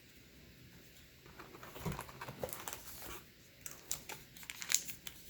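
Crinkling and rustling of a trading card pack's wrapper and cards being handled, starting about a second and a half in after a quiet moment and growing busier toward the end.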